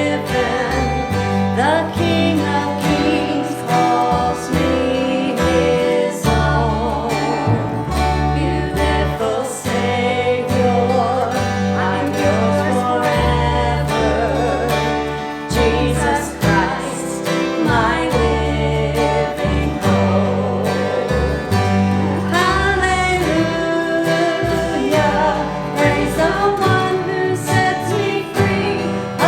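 Gospel song with a voice singing, the pitch wavering with vibrato, over guitar and a steady bass line.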